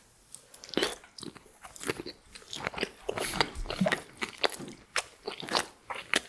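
Close-miked mouth sounds of a person biting and chewing french fries with cheese sauce: an irregular run of crisp crunches and chewing clicks.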